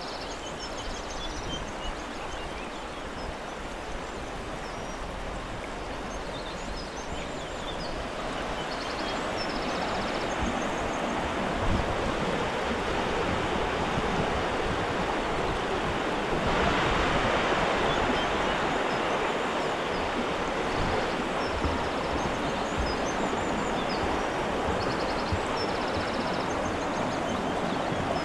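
Rushing stream water, a steady noise that grows louder about a third of the way in and is loudest for a couple of seconds just past the middle. Birds chirp faintly above it.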